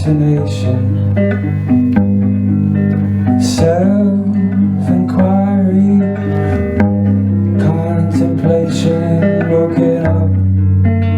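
Live band music: plucked guitar notes over long held bass notes that change every couple of seconds.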